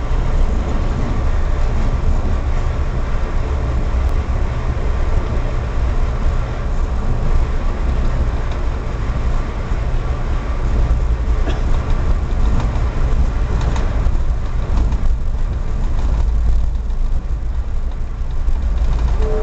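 Pacific Surfliner passenger train heard from inside a coach while running: a steady low rumble of wheels on rail, with an occasional faint click. A steady chord of tones comes in right at the end.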